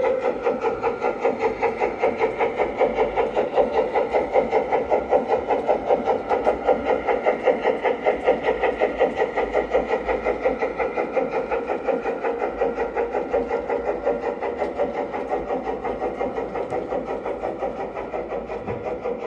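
Sound module of a large-scale LGB model steam locomotive chuffing in a rapid, even rhythm as the train runs, slowly fading.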